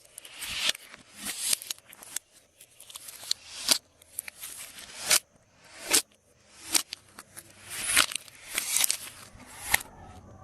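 Glossy slime being squished and stretched by hand: sticky crackling that swells and ends in a sharp pop or click, about once a second, stopping just before the end.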